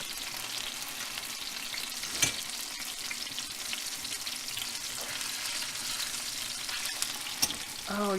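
Breaded chicken frying in hot oil in a pan: a steady crackling sizzle, with a couple of sharp taps, about two seconds in and again near the end, as the pieces are turned.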